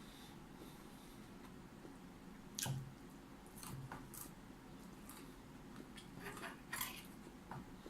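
Close-up eating sounds: raw broccoli being bitten and chewed, with about seven sharp, wet crunches spread over the last five seconds.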